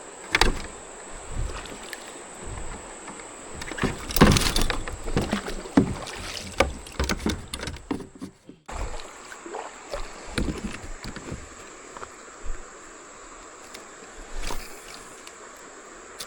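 Scattered knocks, clunks and water splashes from moving about and handling gear in a kayak, over a steady high-pitched insect drone.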